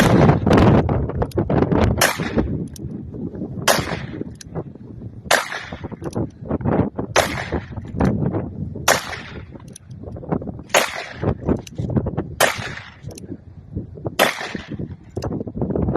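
Gunshots from a pair of Ruger single-action revolvers in .44-40, each a sharp crack with a ringing tail, about one every 1.8 seconds, nine or so in all. Wind buffets the microphone underneath, heaviest at the start.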